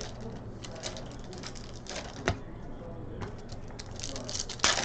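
Trading cards and pack wrappers being handled while packs are opened: a run of light clicks and snaps of card stock, with a sharper snap about two seconds in and a louder cluster near the end.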